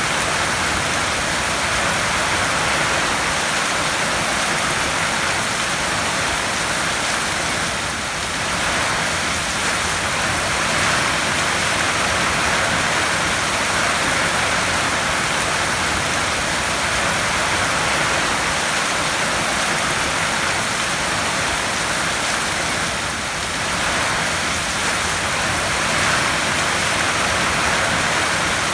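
Heavy rain falling steadily on a tin roof, a dense, even hiss that eases slightly twice for a moment.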